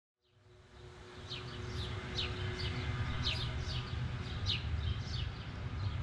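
Birds chirping: short, high, falling chirps repeated two or three times a second over a steady low rumble, fading in during the first second.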